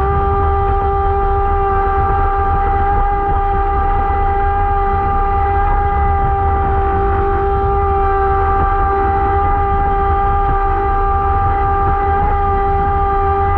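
Electric motor of a radio-controlled boat running at a steady throttle, making a constant-pitch whine with a low rumble underneath.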